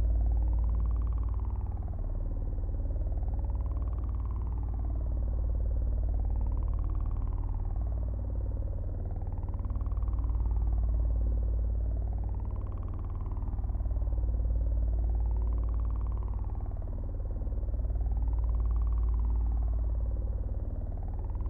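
Synthesized ambient drone: a deep steady hum under a wailing tone that slowly rises and falls, one sweep about every three seconds.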